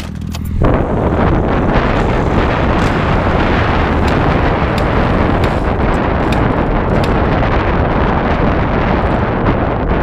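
Wind noise buffeting the microphone over a dirt bike running at speed. A loud, steady rush that sets in about half a second in.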